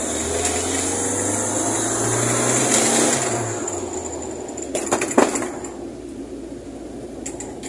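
Fiat 147 race car's engine pulling hard under acceleration, heard from inside the cabin, its pitch rising slightly before it backs off after about three and a half seconds. A few sharp clacks come about five seconds in.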